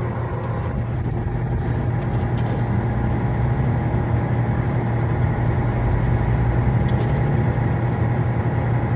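An engine idling steadily: an even low hum with a constant higher tone over it.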